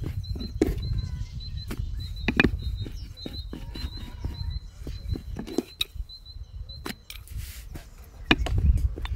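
A small bird chirping over and over in short, high double notes, stopping about two-thirds of the way through. Under it are scattered light clicks and taps from hands working food on a wooden board, and a low rumble.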